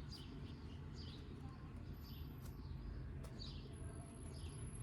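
A small bird chirping faintly in short calls, about one or two a second, over a low steady background hum.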